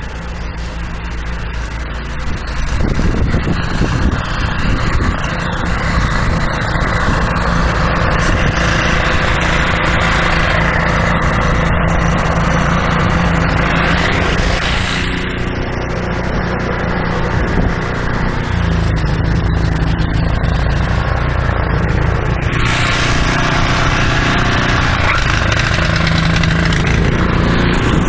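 A motor vehicle's engine running steadily close by, getting louder about three seconds in, under a steady rushing noise.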